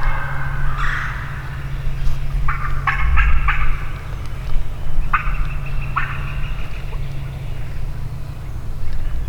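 Wild turkeys gobbling: three rattling gobbles come about one, three and five seconds in. A steady low rumble runs underneath.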